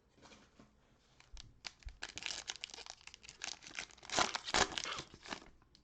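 Plastic trading-card pack wrapper crinkling as it is handled and torn open, in quick irregular crackles that are loudest a little past the middle.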